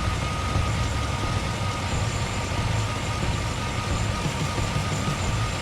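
Chevrolet Tahoe engine idling steadily, with a thin high whine running over it.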